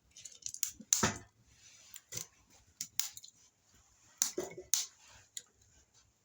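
Softwood fire crackling in a small tent stove burning with its air intake fully open: sharp, irregular pops and snaps, the loudest about a second in. The resinous conifer wood is spitting embers.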